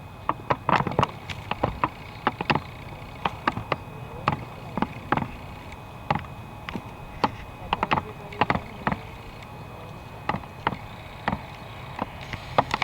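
Crackling static on an air traffic control radio feed between transmissions: irregular sharp clicks and pops, several a second, over a steady low hiss.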